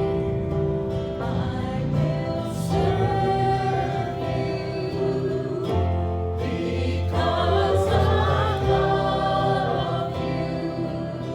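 A group of voices singing a hymn with instrumental accompaniment and a steady bass line.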